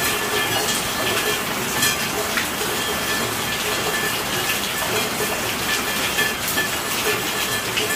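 Steady rainfall: an even hiss of rain with the sharp taps of individual drops scattered through it.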